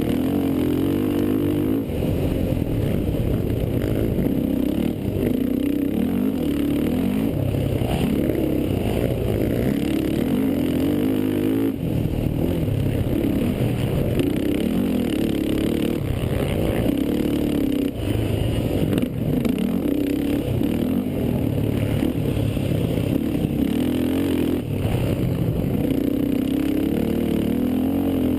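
Racing quad (ATV) engine running hard, its pitch rising and falling again and again as the throttle is worked.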